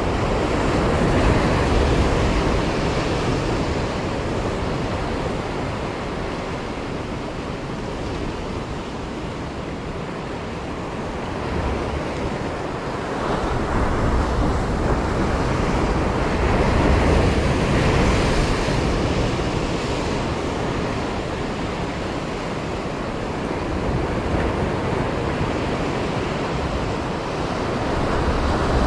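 Ocean surf breaking and washing against a concrete breakwater, with wind buffeting the microphone. The rush of the waves swells and eases slowly, loudest about halfway through.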